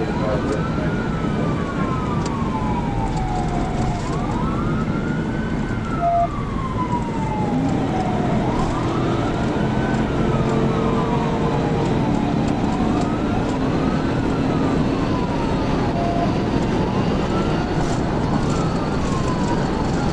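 Police car siren wailing, its pitch rising and falling slowly about every four seconds, over the steady rush of road and engine noise from a cruiser driving at speed.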